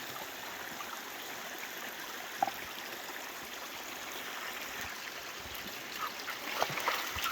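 Creek water running steadily over rocks, with one short sharp sound about two and a half seconds in.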